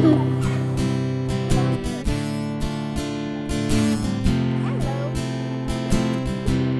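Background music: strummed acoustic guitar with held chords and regular strokes.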